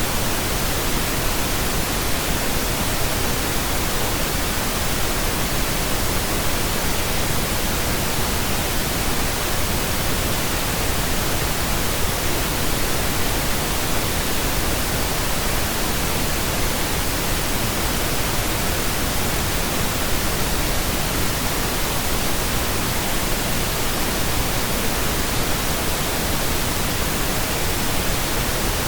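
Steady synthetic pink noise: an even, unbroken hiss that does not change.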